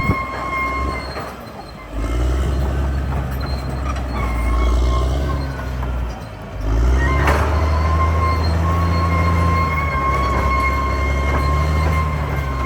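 CAT D6R XL bulldozer's diesel engine working under load, easing off briefly about a second and a half in and again around six seconds, with a steady high-pitched squeal over it from the machine. A single sharp metallic knock comes about seven seconds in.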